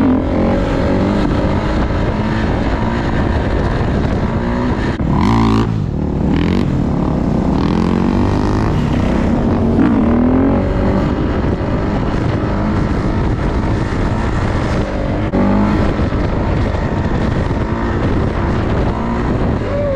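Dirt bike engine running hard near the microphone, its pitch rising and falling with the throttle.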